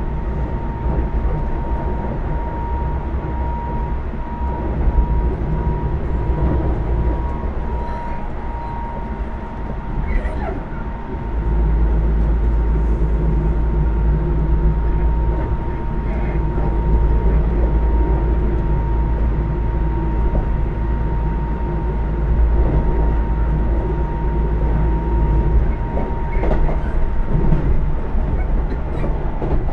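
Keisei AE100 electric train running, heard from inside the passenger car: a steady rumble of wheels and running gear, with a steady high tone over it. The rumble grows louder about ten seconds in, and the tone stops near the end.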